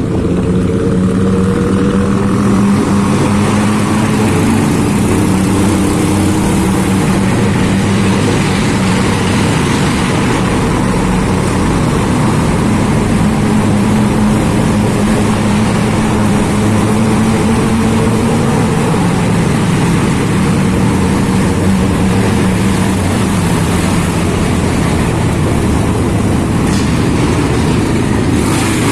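Large-displacement motorcycle engine running steadily while riding, its pitch drifting slowly up and down, over a constant rush of wind and road noise.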